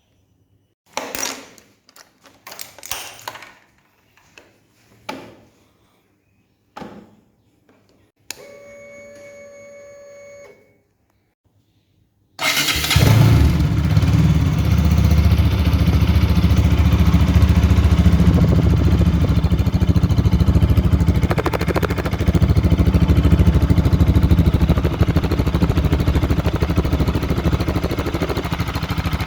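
Bajaj Pulsar RS 200's single-cylinder engine: a few clicks and knocks, a steady hum for about two seconds, then the engine starts suddenly about twelve seconds in and runs loud and steady.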